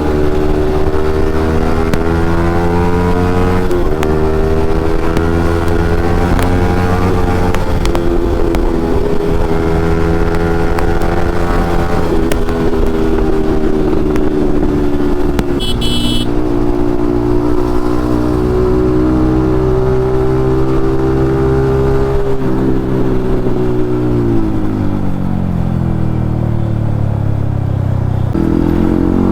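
Yamaha MT-15's single-cylinder engine through an Akrapovic aftermarket exhaust under way, the revs climbing and dropping back with each gear change several times. Near the end the revs fall away as it slows, then pick up again.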